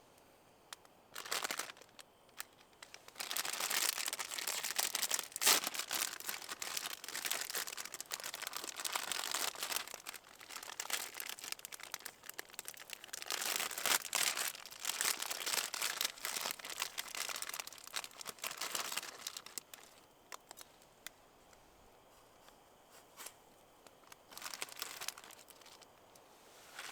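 Crinkling and rustling of something being handled, in irregular spells for about twenty seconds, then only a few faint clicks near the end.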